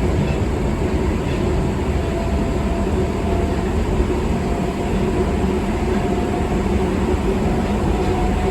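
Osaka Metro Tanimachi Line 22 series subway train running: a steady rumble of wheels on track with a faint whine that rises slowly in pitch.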